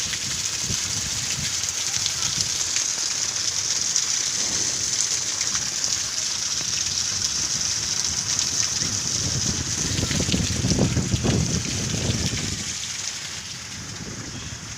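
Heavy rain falling steadily with a constant hiss. A louder low rumble swells and fades about ten seconds in.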